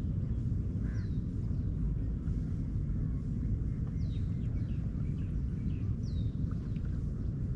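Birds calling over a steady low rumble: short, high whistles that sweep downward, one every two to three seconds, among smaller scattered chirps.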